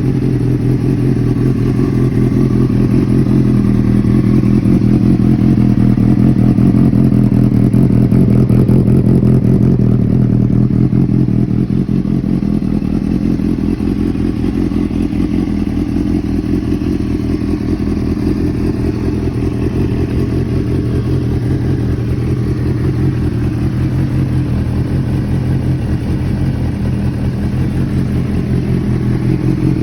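Honda CBR600RR's inline-four engine with an aftermarket exhaust, running at a steady idle.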